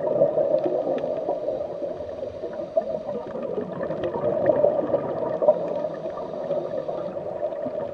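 Steady underwater ambience: a continuous bubbling, gurgling water bed.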